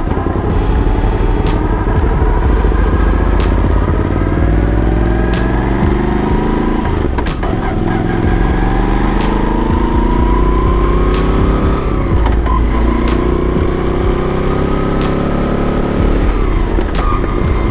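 Moto Guzzi V85 TT's air-cooled transverse V-twin engine on the move, accelerating through the gears: its pitch climbs steadily, then drops at a gear change about seven, twelve and seventeen seconds in.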